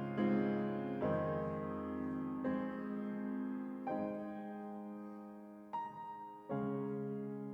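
Slow, quiet piano music: soft chords struck every second or two and left to ring and fade.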